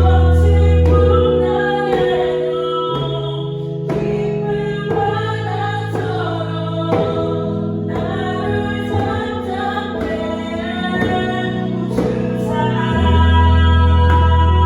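Christian worship song: a female voice singing a slow melody over keyboard accompaniment with sustained bass chords, and light djembe hand-drum strokes here and there.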